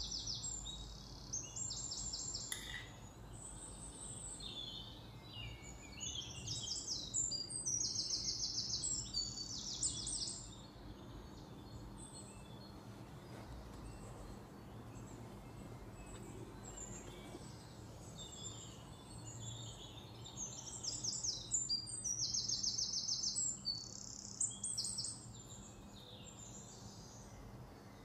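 Birds chirping in rapid, high-pitched trills that come in bursts, busiest about a quarter and again three quarters of the way through, over a faint steady low hum.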